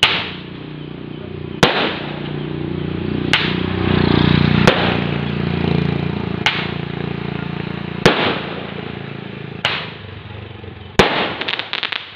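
Fireworks going off: eight sharp bangs at a steady pace of about one every one and a half seconds, each followed by a noisy tail, ending in a quick cluster of cracks. A low steady hum runs underneath and swells about halfway through.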